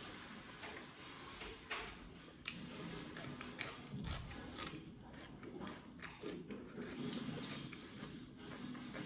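A person eating goat head meat close to the microphone: irregular chewing and biting, with many short sharp clicks and smacks.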